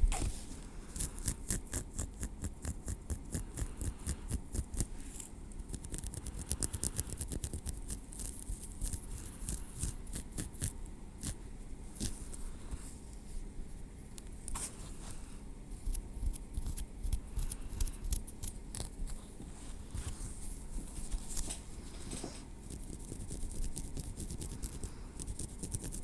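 Tweezers working through hair on a scalp: many light, sharp clicks and small scrapes, coming in a quick run over the first several seconds and more sparsely after.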